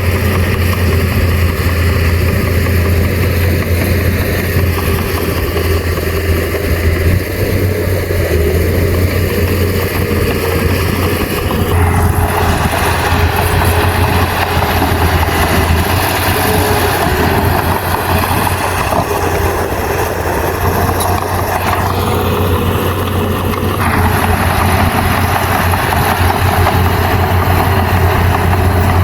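Heavy earthmoving machine's diesel engine running steadily, with a louder rough noise over it from about twelve seconds in, easing briefly a little past twenty seconds and then returning.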